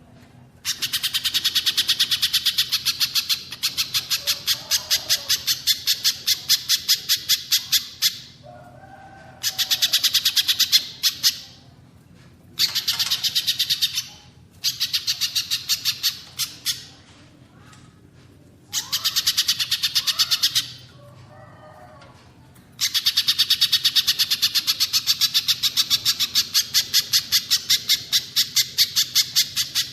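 Songbird calling in long runs of rapid, evenly repeated, high, sharp notes, several bouts of two to seven seconds with short breaks, with a few softer, lower calls in the breaks. It is a bird-song training recording combining spiderhunter (pijantung) and cililin calls.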